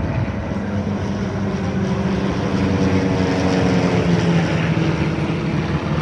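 Formation of homebuilt propeller planes flying past with a steady engine drone, dipping slightly in pitch about four seconds in as they pass.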